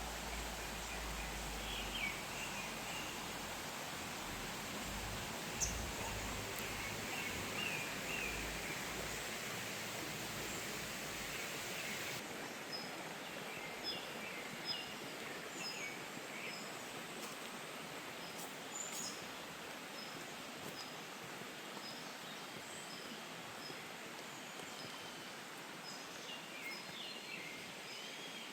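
Forest stream water rushing steadily, with small birds chirping in short bursts several times over it. A low rumble in the water noise drops away about halfway through, and from then on a quick, regular series of short high chirps runs through the second half.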